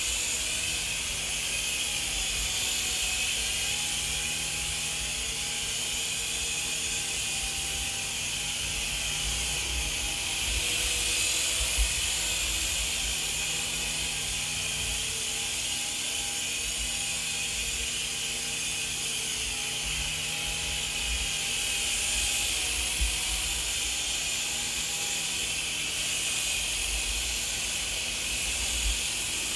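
Small electric RC helicopter (Helizone FireBird 3-channel) in flight: its electric motors whine and the rotors buzz steadily, the pitch shifting slightly up and down as the throttle changes, with a few brief small knocks.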